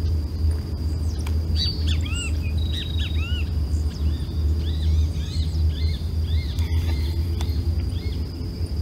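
Small birds chirping in quick repeated arched notes, over a steady low rumble and a thin steady high tone.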